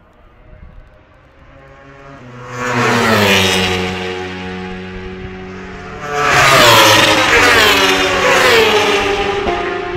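A pack of racing engines passes close by, several at once, their pitch dropping as they go past. One loud pass comes about three seconds in and a louder, denser bunch follows around seven seconds.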